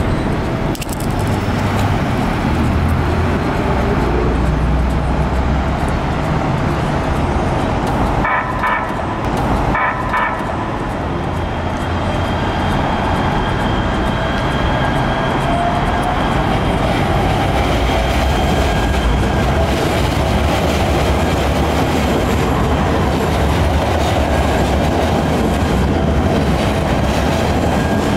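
A Los Angeles Metro Rail train running past with a loud, steady noise of wheels and motors. About eight and ten seconds in, the train's horn gives two short toots.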